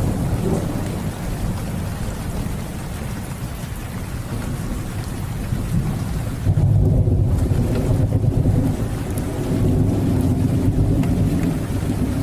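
Steady rain with rolling thunder; the low rumble swells about six and a half seconds in and again near ten seconds.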